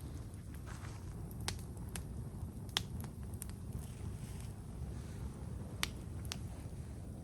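Wood campfire burning, with about half a dozen sharp pops and crackles over a low steady rumble.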